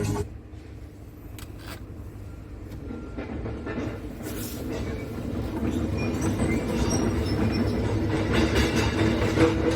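Scania S tractor unit's diesel engine running as a low rumble that grows steadily louder.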